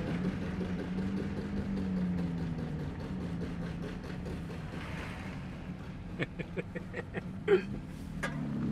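Car engine running with road rumble, heard from inside a moving car's cabin; the engine note wavers slowly in pitch. A handful of short sharp clicks come between about six and eight seconds in.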